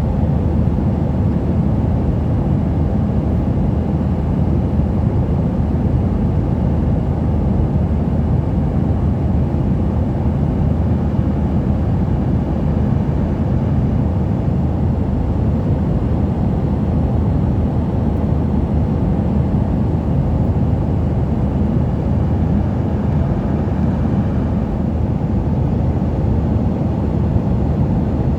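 Airliner cabin noise in flight: a steady, loud low rumble of engines and rushing air that does not change.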